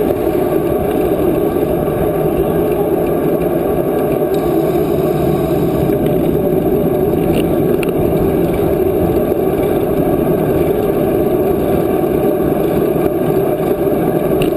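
Steady wind noise rushing over the microphone of a camera riding along on a moving bicycle, a loud even rumble without a break.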